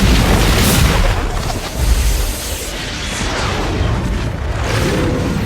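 Film sound effects of ship-launched intercept missiles firing and exploding: a loud rushing blast with deep booms, easing a little after about two seconds.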